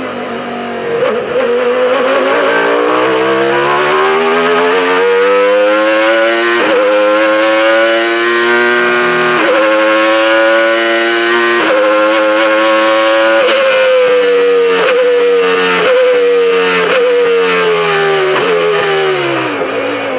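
Renault Espace F1's 3.5-litre Renault RS5 V10 accelerating hard through the gears of its six-speed semi-automatic gearbox, with three quick upshifts in which the pitch drops and climbs again. Then it brakes, the pitch falling through a run of downshifts, each marked by a brief throttle blip.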